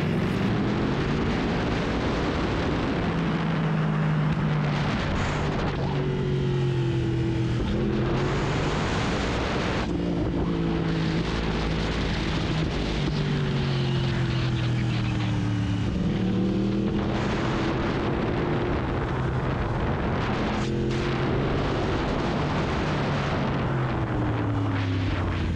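Yamaha R1 motorcycle engine under way, its note rising and falling again and again as the bike speeds up and slows, with a steady rush of wind over the microphone.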